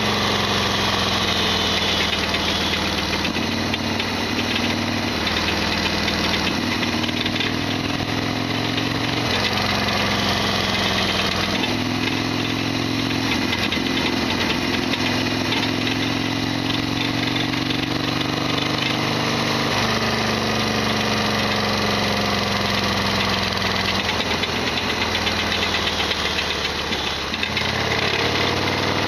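Harley-Davidson Sportster XL1200R's air-cooled 1200 cc V-twin running on the move, its pitch stepping up and down several times. Over it runs the loud rattly mechanical noise the owner calls gatapishi, an abnormal noise he says the bike always makes.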